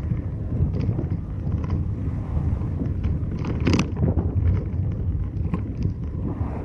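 Car driving: a steady low road-and-engine rumble with wind buffeting the microphone, scattered light clicks, and one louder knock or rattle a little past the middle.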